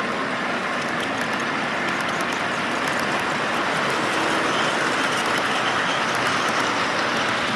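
Freight train rolling past: a steady noise of wheels on rails with faint scattered clicks.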